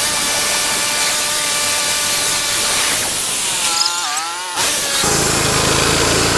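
Portable bandsaw sawmill running, its engine and band blade giving a steady whine over hiss. About four seconds in the pitch dips and comes back up, and near the end the sound changes abruptly to a lower, rougher engine running.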